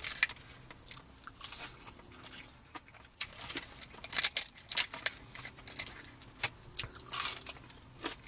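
Close-up chewing of crispy fried chicken, with irregular crunches and wet mouth sounds.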